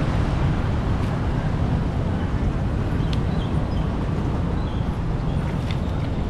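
Floodwater rushing steadily, a loud low rush with a couple of faint ticks.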